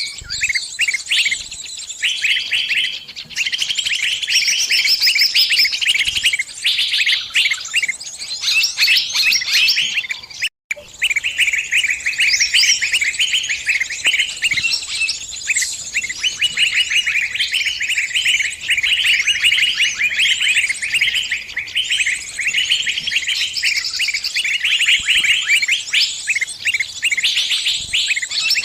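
Small birds chirping rapidly and without pause, the high, insistent calls of a trapped bird in distress with other birds answering. The sound cuts out for a split second about ten seconds in.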